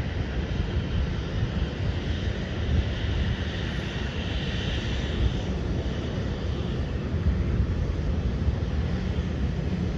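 Boeing 737 jet engines, a steady rushing rumble with a higher whine that grows louder about halfway through.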